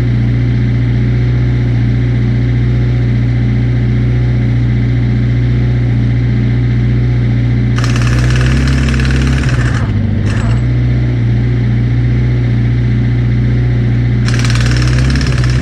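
A large engine idling steadily, with two bursts of hissing noise, one about eight seconds in and one near the end.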